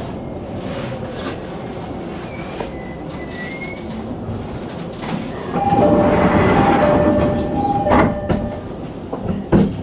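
Sotetsu 10000 series electric train running along the line, with clicks from the rails. About halfway through, a level-crossing bell rings for about three seconds, two tones taking turns.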